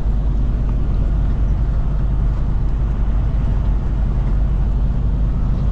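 Tractor-trailer cruising on the highway, heard from inside the cab: a steady low rumble of engine and road noise.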